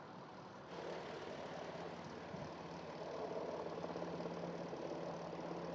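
A steady engine hum under a rushing, noisy wash that grows louder about a second in and again about halfway through.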